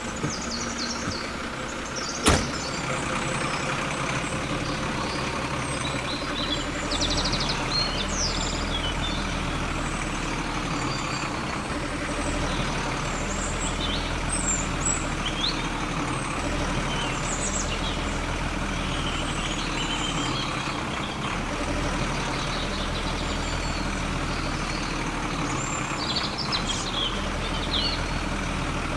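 A vehicle engine running steadily with a low drone, with a sharp click about two seconds in and short high chirps now and then over it.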